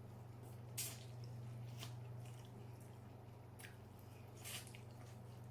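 Faint wet mouth sounds of eating seafood: four or five short, separate smacking clicks from chewing, over a steady low hum.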